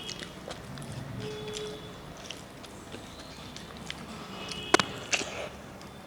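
Eating sounds of a meal eaten by hand: small clicks and mouth noises, with a sharp click a little under five seconds in and another just after.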